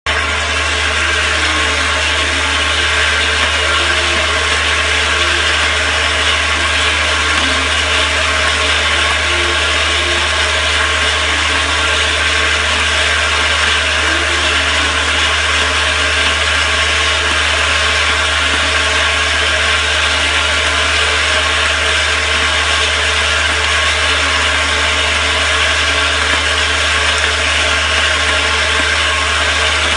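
A machine running steadily and loudly, with a low hum under an even mechanical whir that does not change.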